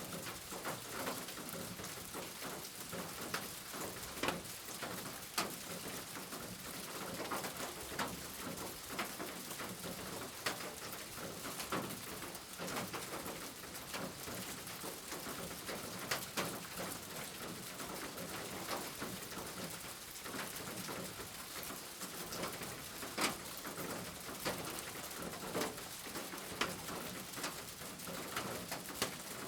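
Steady rain with frequent single drops tapping sharply and irregularly on a hard surface.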